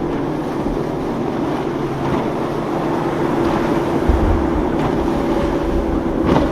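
Motorboat engine running with a steady drone as a boat passes through the inlet, over surf and water noise. Wind buffets the microphone, heaviest from about four seconds in.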